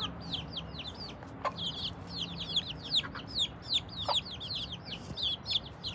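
Many young chicks peeping continuously in short, high, downward-sliding cheeps, with a couple of brief lower calls among them and a faint low hum underneath.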